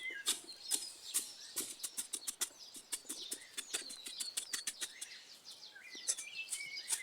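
A quick, uneven run of sharp knocks and scrapes from a hand tool digging a trench fire pit in sandy soil, densest about two seconds in. Small birds chirp steadily behind it.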